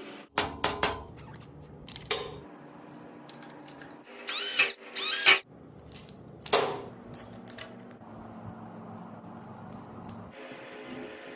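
Workbench assembly sounds: sharp knocks and clatter of small metal parts and tools, with two short whirs of a small electric motor spinning up and down about halfway through, over a low steady hum that stops near the end.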